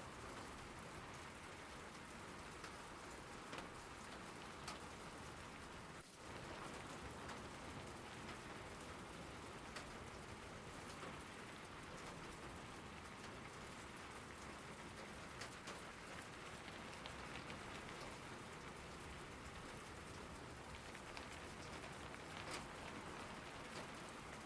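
Steady rain falling, a continuous hiss with scattered ticks of individual drops. There is a brief dip about six seconds in, after which it is slightly louder.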